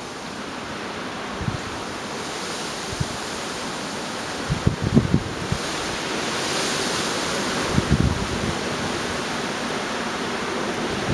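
Gale-force storm wind rushing steadily, swelling into a stronger gust about two-thirds of the way through, with short low rumbles of wind buffeting the microphone several times.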